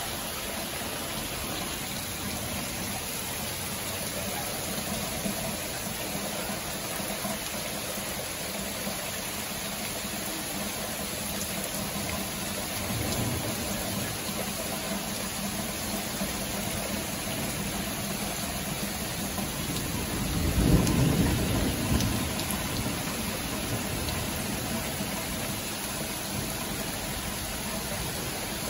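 Steady rain, with a low rumble of thunder swelling up about two-thirds of the way through.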